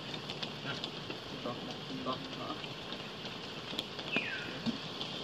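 Steady rain falling and pattering, with a short falling chirp about four seconds in.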